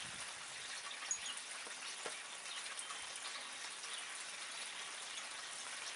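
Steady rain falling, an even hiss with a few single drips landing now and then.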